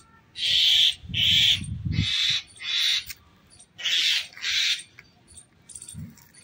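Six harsh, rasping screeches, about half a second each, from a small bird caught in a snake's coils: distress calls. Four come close together, then two more after a short pause.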